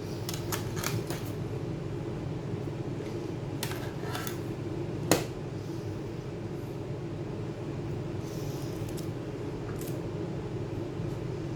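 Small clicks and taps of tools and laptop parts being handled, with one sharp click about five seconds in, over a steady low hum.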